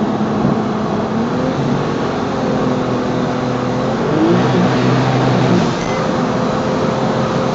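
Twin-turbo Porsche 911 engine pulling hard on a high-speed run, heard from inside the cabin over heavy road and wind noise. The engine note holds steady pitches that shift in steps a few times.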